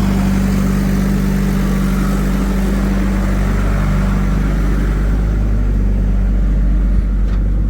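Heavy diesel engine running steadily at an even speed, its higher hiss thinning out over the last few seconds, with a single faint knock near the end.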